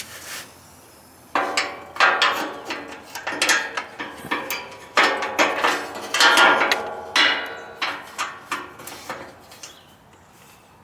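Metal clanking and rattling: a run of knocks, many with a short metallic ring, as sheet-metal parts of a riding mower are handled. It starts about a second in and dies away near the end.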